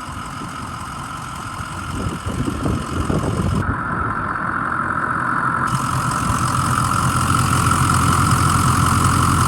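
Ford 6.0-litre Power Stroke V8 turbo-diesel engine idling steadily, with a constant whine above the rumble, and getting gradually louder through the second half. Once started it runs smoothly and sounds really nice.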